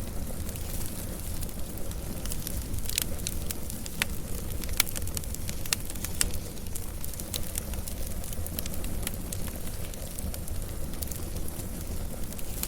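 Wood fire burning, crackling with scattered sharp pops over a steady low rumble; the loudest pops come about three and five seconds in.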